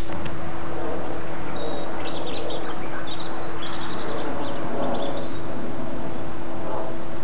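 A small bird twittering in a quick series of high chirps from about one and a half to five seconds in, over steady background noise and a constant low hum.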